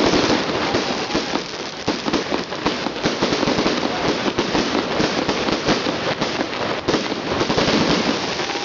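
Fireworks salute: a dense, unbroken crackle of many small sharp cracks that starts suddenly with a loud burst, with scattered louder bangs through it.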